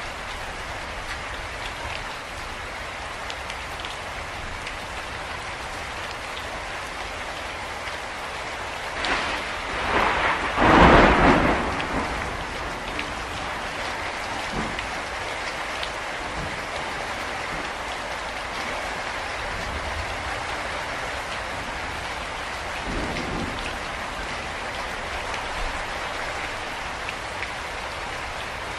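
Steady rain falling, with a loud crack of thunder about ten seconds in that rumbles on for two or three seconds before fading back into the rain.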